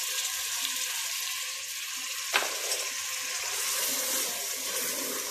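Spiced onion masala sizzling in hot oil in a metal pot while thick yogurt is stirred into it with a wooden spoon: a steady frying hiss. One sharp tap comes a little over two seconds in.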